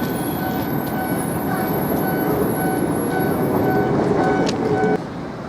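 Manyosen tram running with a steady rumble, over which an electronic beep repeats about twice a second; the beeping and some of the rumble stop abruptly near the end.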